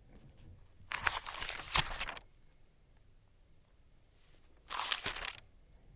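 Packaging being opened by hand: two bursts of crinkling and tearing of paper or plastic wrapping with a couple of sharp snaps, about a second in and again near the end.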